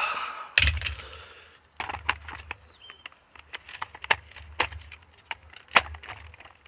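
Irregular sharp clicks and knocks of hard plastic pressure-washer nozzles and accessories being handled and swapped, with a louder knock about half a second in.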